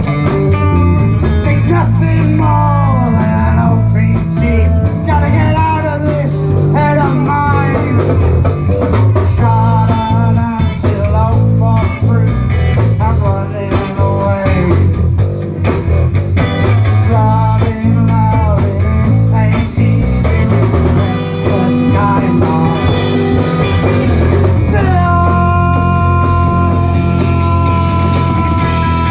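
Live rock band playing: drums and bass under a bending electric lead guitar line, with a long held guitar note near the end.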